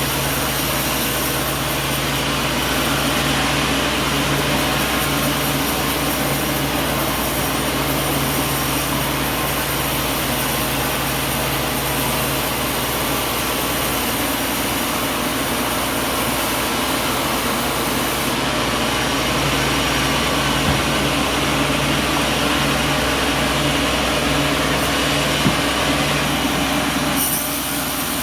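Sawmill machinery running steadily: a continuous mechanical drone with a steady low hum, a small click about 25 seconds in, and a slight drop near the end.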